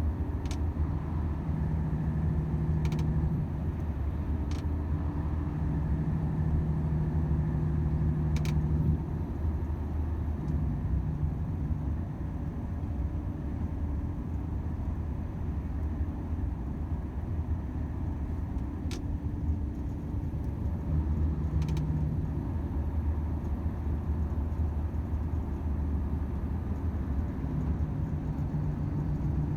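Volvo FH 500 truck's 13-litre straight-six diesel running on the road, a steady low drone with tyre and road rumble, its engine note strengthening and easing at times. A few faint clicks are scattered through it.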